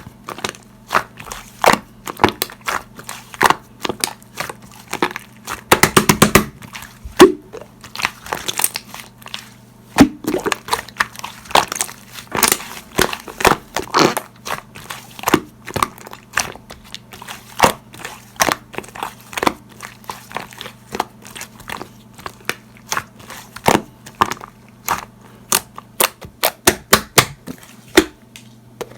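Slime being kneaded and squished by hand, giving a steady run of irregular crisp pops, clicks and crackles, with a denser burst of squishing about six seconds in, over a faint low hum.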